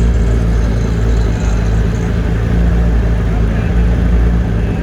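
Car engine idling steadily, with people talking around it.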